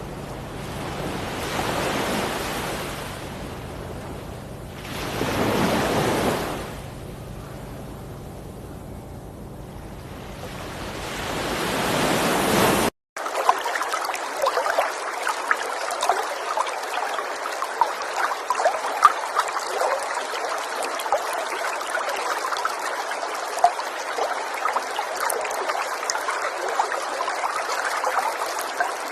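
Running river water. For the first half the rush swells and fades every few seconds; after an abrupt cut about halfway through, it becomes a steady babbling stream full of small splashes and trickles.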